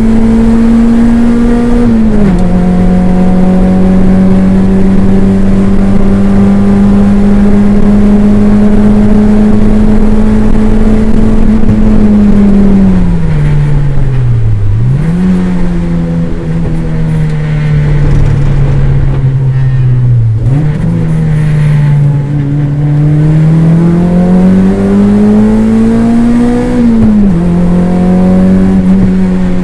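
Toyota MR2 race car's engine heard from inside the car at full load: an upshift about two seconds in, a long pull, then the engine note falling twice under braking with a blip on each downshift, and a steady climb to another upshift near the end.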